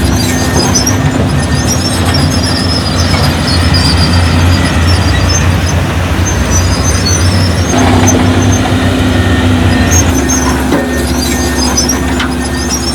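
Diesel engine of heavy construction machinery running steadily under load, with high-pitched squealing that comes and goes at the start, midway and again near the end.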